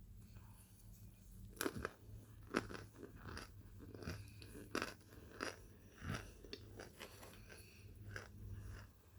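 A person chewing and crunching hard chunks of microwaved Kingsford's cornstarch, a series of sharp crunches at irregular intervals.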